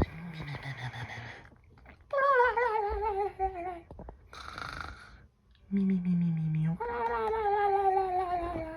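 A voice performing cartoon-style snoring: raspy breaths in alternating with long, wavering tones that slide downward on each breath out, twice, with a short low hum between them.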